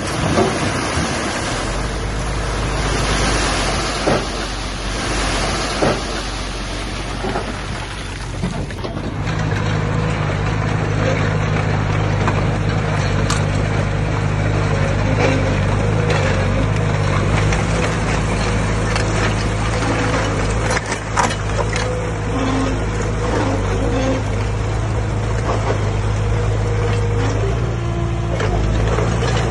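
Diesel engine of heavy earthmoving machinery running under work, with scattered clanks and knocks. About nine seconds in, the sound turns into a steadier, deeper engine tone.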